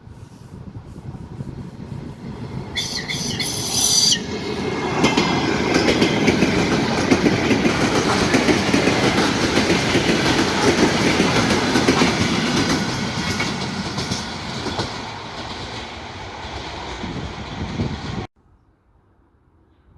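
A train passing at speed, its wheels clattering over the rail joints, growing louder as it approaches and then easing off. A brief high, shrill sound comes about three seconds in. The sound cuts off abruptly near the end.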